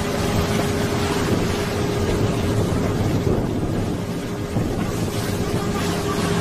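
Boat engine running steadily, with wind buffeting the microphone and water rushing along the hull.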